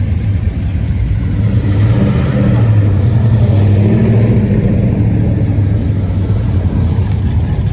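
A car engine running, swelling louder from about two seconds in and easing back after about five seconds.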